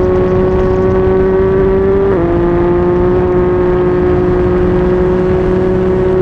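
Yamaha MT-09 three-cylinder engine through a Yoshimura R55 slip-on exhaust, pulling steadily at speed with a rising note, then a quick drop in pitch about two seconds in as it shifts up a gear, holding steady after.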